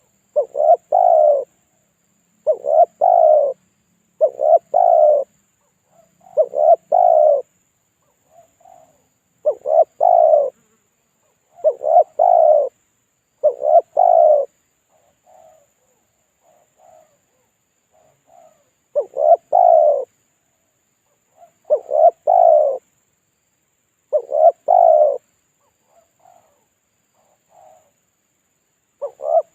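Spotted dove (tekukur) cooing, the repeated lure call used to draw in wild doves. About eleven loud coo phrases come roughly every two seconds, with one longer pause about halfway, and fainter short notes sound between the phrases.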